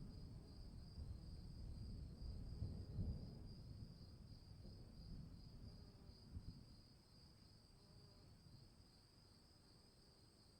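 Crickets chirping in a steady, fast-pulsing high trill, with a faint low rumble that fades away over the first several seconds.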